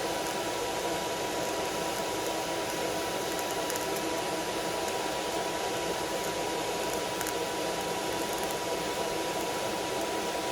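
Steady, even blowing noise with a faint steady high tone running through it, without change or interruption.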